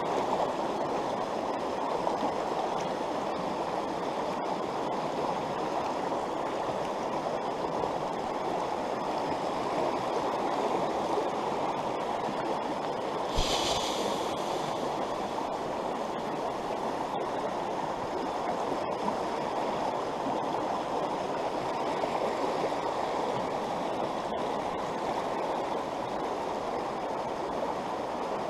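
Trout stream rushing over rocks, a steady rush of water, with a single brief thump about halfway through.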